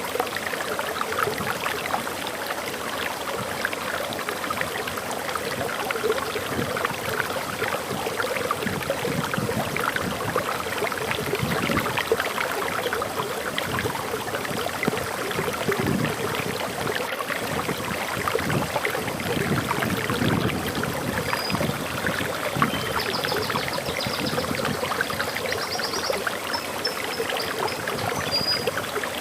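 Forest waterfall flowing steadily, a dense rushing and splashing of water. Short, faint high bird chirps come in now and then in the last third.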